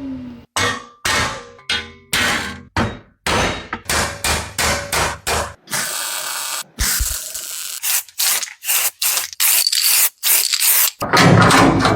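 Metalworking tool noises in quick succession: about twenty short scraping, grinding and clanging strokes, each cut off sharply, with a louder, longer stretch near the end.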